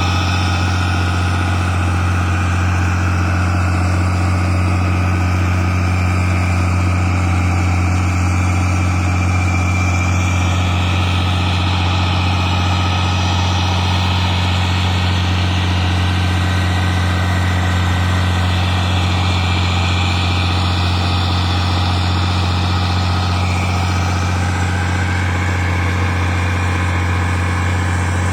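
A sand boat's engine running steadily at a constant speed, a loud, even low drone that holds the same pitch throughout.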